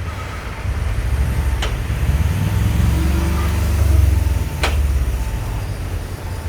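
Heavy road vehicle's engine running, its low rumble building to a peak about four seconds in and then easing off. Two sharp clicks stand out over it.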